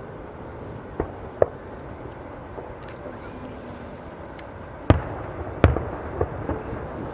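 Aerial firework shells bursting in sharp bangs: two smaller reports about a second in, two louder ones around five seconds, then a few lighter cracks, over a steady background hiss.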